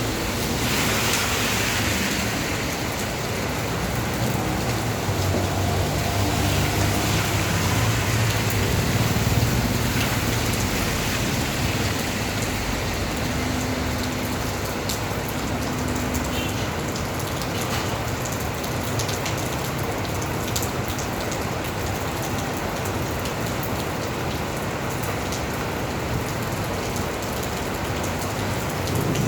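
Steady heavy rain falling and pattering on surfaces, with a low rumble underneath during the first half.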